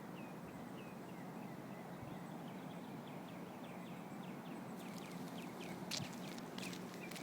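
Faint series of short, falling chirps, about three a second, from a small animal, most likely a bird, over steady outdoor background noise. A few faint clicks come near the end.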